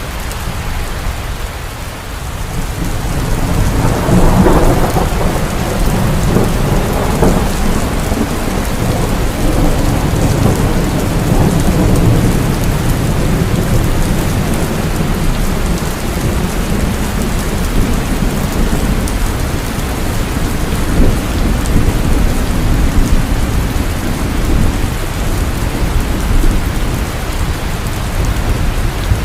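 Heavy rain falling steadily, with a long low rumble of thunder that swells about three seconds in and slowly fades over the following ten seconds or so.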